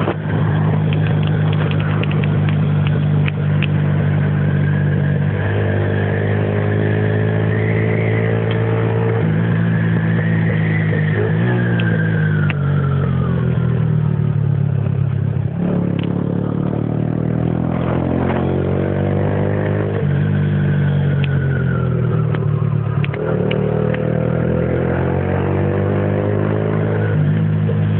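Suzuki Yes 125's single-cylinder four-stroke engine running through an aftermarket aluminium Roncar RS exhaust. It idles steadily at first, then is revved several times, its pitch rising and falling with each blip.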